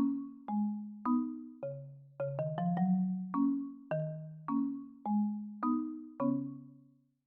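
Background music: a light tune of struck, marimba-like mallet notes, about two a second, each ringing and decaying, with a quick run of notes about two and a half seconds in. The last note dies away near the end.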